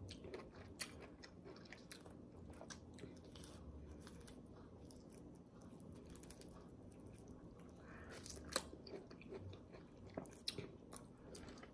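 Faint, wet close-up chewing of juicy pomelo segments, with scattered small mouth clicks and a few sharper ones near the end.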